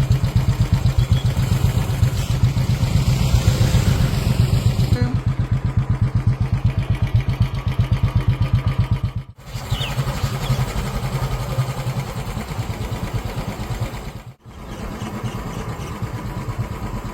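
A small engine running close by, its rapid firing pulses steady, in three stretches split by two sudden cuts.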